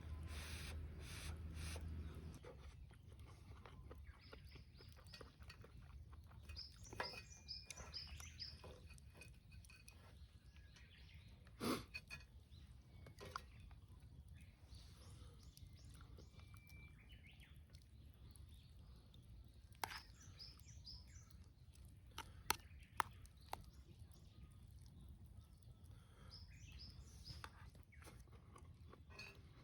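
Faint birdsong outdoors: several runs of short, high chirps, with a few sharp knocks and clicks in between, the loudest about twelve seconds in.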